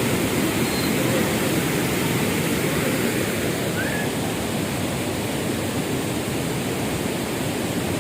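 Steady rushing of a swollen river in flood, with fast water running high.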